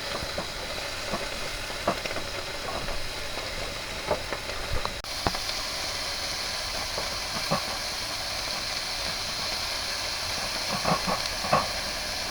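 Beef sizzling on a hot grill, a steady frying hiss with a few scattered clicks and pops. The sizzle turns brighter and louder about five seconds in.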